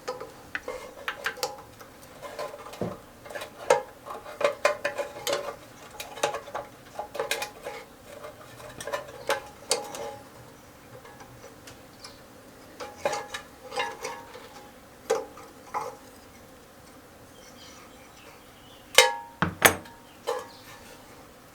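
Metal tools and small engine parts clicking, clinking and tapping against each other in irregular strokes while a Honda lawnmower engine is worked on. Two louder knocks come close together near the end.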